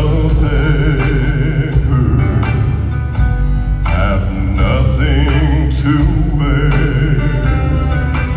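Live southern gospel music from a male vocal quartet: long held sung notes with vibrato over instrumental accompaniment.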